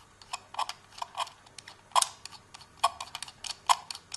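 Chuff-sound device in a Hornby B12 model loco's tender: a small metal plate on the axle scraping against a strip of sandpaper on a metal rod as the wheel is turned, giving a rapid, uneven series of short scratchy strokes meant to imitate a steam engine's exhaust. The strokes come faster in the second half.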